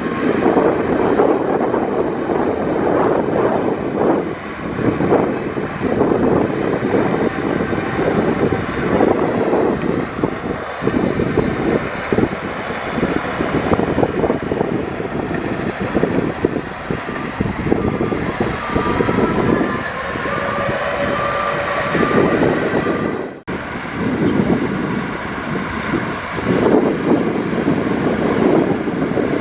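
Heavy bulldozer working, its diesel engine running under load with clanking, rattling tracks. A short run of beeps sounds about two-thirds of the way through, and the sound cuts out for an instant just after.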